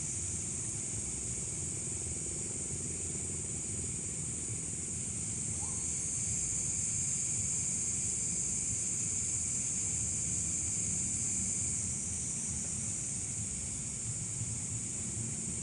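Steady chorus of insects, likely crickets, a continuous high-pitched buzz that never breaks, over a low, even rumble of background noise.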